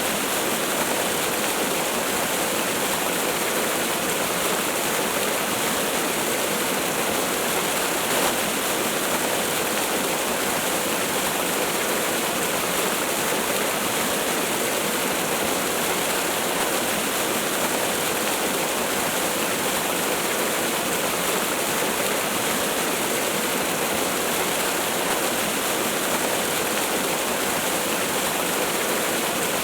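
Waterfall: water falling and splashing in a steady, unbroken rush, with little deep rumble.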